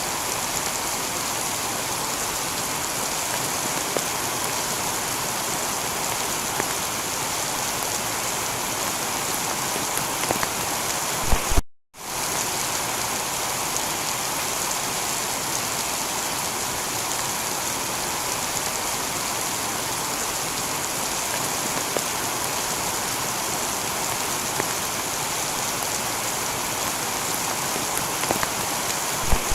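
Steady heavy rain falling on a tiled roof, an even hiss with no thunder. About twelve seconds in there is a sharp click and the sound cuts out for a moment before the rain resumes.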